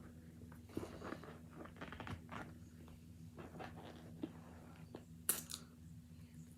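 Close-up chewing and crunching of hard cornstarch chunks, with irregular crackles and a sharp crack a little past five seconds in, over a faint steady hum.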